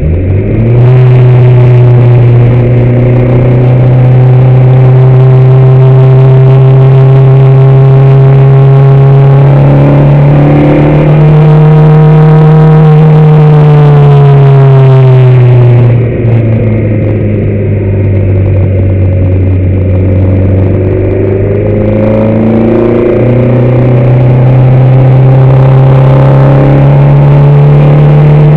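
Car engine heard on board, running hard. Its pitch climbs and holds high, drops suddenly about sixteen seconds in as the throttle comes off, then rises again over the last several seconds.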